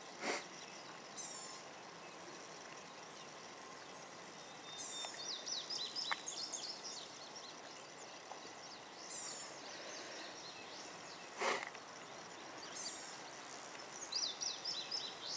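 Quiet open-air ambience with songbirds singing in short high chirps and trills, and one brief puff of noise a little past the middle.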